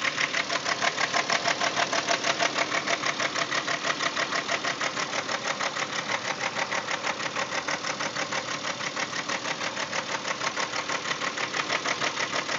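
A 2000 Volkswagen Jetta GLX's 12-valve VR6 engine idling with a steady, rapid ticking, about five ticks a second. The owner is unsure whether the ticking is valvetrain noise or timing chain noise.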